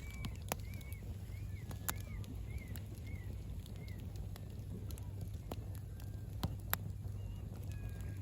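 Campfire crackling, with a handful of sharp pops over a steady low rumble. Alongside it a short arched chirping call repeats about twice a second, growing fainter and sparser after the first few seconds.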